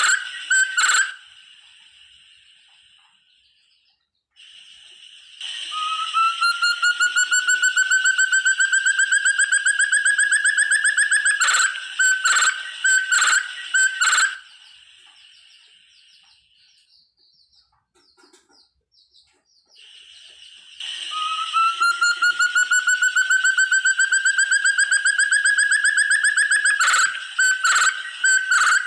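Forest partridge (burung terung) calling twice. Each time a long run of rapid whistled notes climbs slowly in pitch for several seconds, then breaks into a few sharp, louder notes, with a quiet pause between the two.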